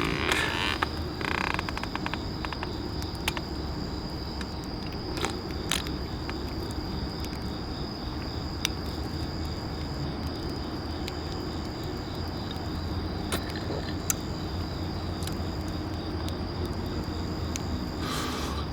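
Insects trilling steadily in a high, even tone, with scattered sharp clicks over a low background hum.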